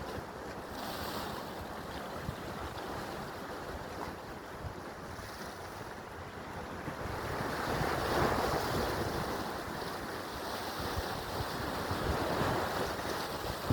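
Sea waves washing in with wind buffeting the microphone; the wash swells louder about eight seconds in.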